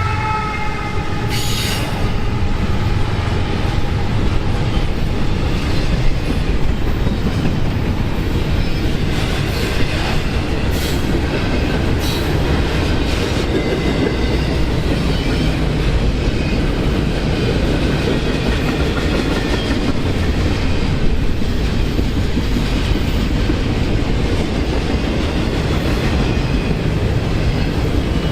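Train passing close by: a steady rumble of wheels on rail, with occasional sharp clacks over rail joints.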